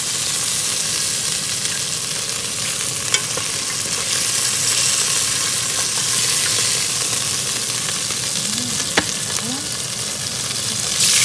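Beef rouladen frying in hot oil in a pot, a steady sizzle, with a couple of sharp clicks of the tongs as the rolls are lifted out. The sizzle surges louder at the very end.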